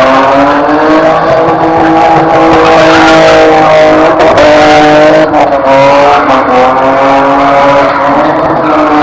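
Car engine held at high revs during drifting, its pitch rising and falling slightly as the throttle is worked, with tyre noise underneath.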